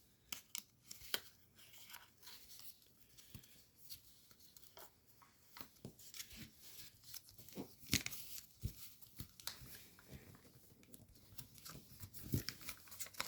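Faint, scattered crinkling and crackling of origami paper being creased and folded by hand, with a few sharper crackles.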